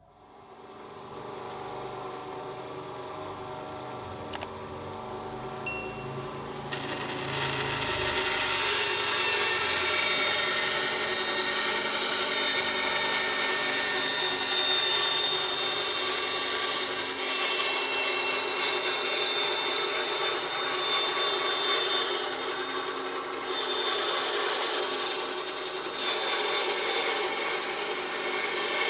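Ryu RBS 8 eight-inch bandsaw running with a steady motor hum. From about seven seconds in, the blade is cutting through wood with a rough, rasping noise, which eases briefly a few times.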